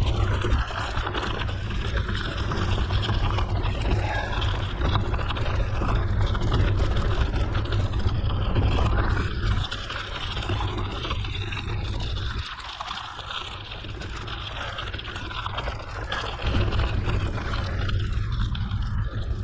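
Mountain bike riding on a gravel forest road: wind buffeting the camera microphone with the tyres rolling over gravel. The noise eases off briefly about two-thirds in.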